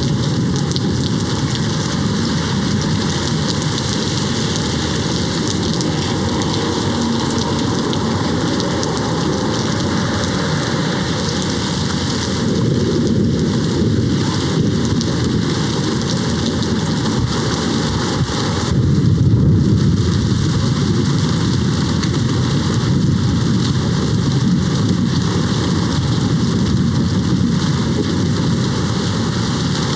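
Steady heavy rain with rolling thunder. The thunder rumble swells a little before the middle and grows loudest a little past it.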